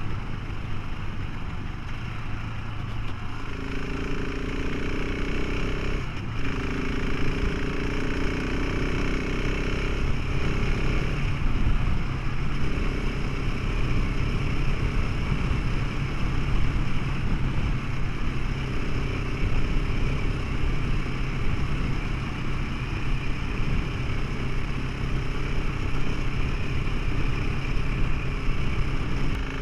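Motorcycle engine running steadily while riding, its pitch shifting a few times, under a continuous rushing noise.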